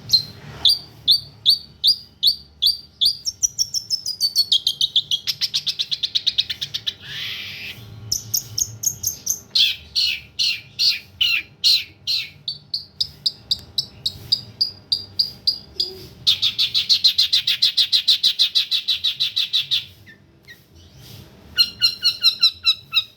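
A songbird singing loud, sharp repeated chirps at about two to three a second, broken by fast rattling runs. A long buzzy trill comes about two-thirds of the way through, and the song pauses briefly near the end.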